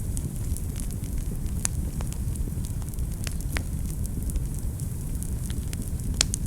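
Fire burning in a fireplace: a steady low rumble of flames with sharp crackles and pops scattered irregularly through it, the loudest pop near the end.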